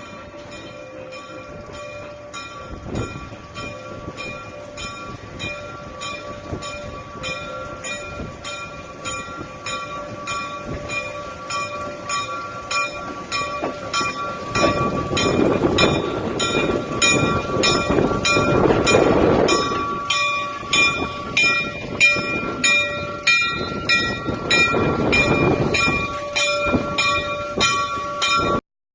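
Electric railway car running on the museum line with a steady whine and regular wheel clicks over the rail joints, growing louder as it approaches. Gusts of wind buffet the microphone about halfway through and again near the end, and the sound cuts off abruptly at the very end.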